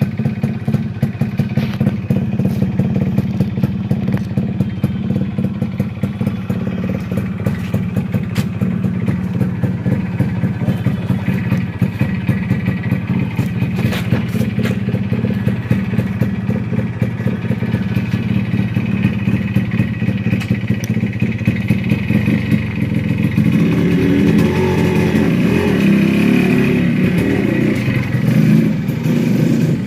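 A Yamaha RX100's 98 cc single-cylinder two-stroke engine running steadily with a rapid, even exhaust beat. For the last six seconds or so it gets louder and rougher.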